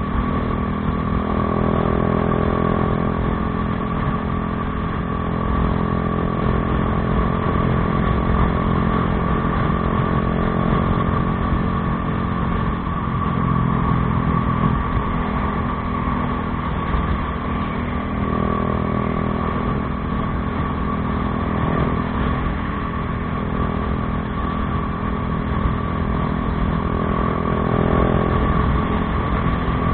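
Bajaj Dominar 400's single-cylinder engine running through an aftermarket Akrapović exhaust, its note rising and falling a little with small changes in throttle.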